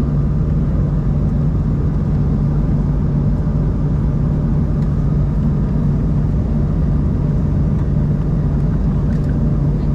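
Steady cabin drone of an Embraer 190-E2 airliner with its Pratt & Whitney PW1900G geared turbofans running: an even rush with a strong low hum.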